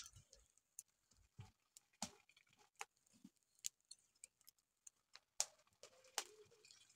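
Near silence broken by faint, irregular clicks and small pops, a dozen or so scattered through.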